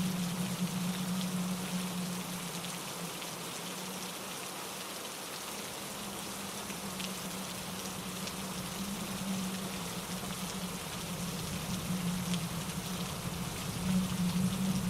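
Steady rain falling on leaves and pine needles, with scattered individual drops ticking over an even hiss and a steady low hum underneath; it swells a little near the end.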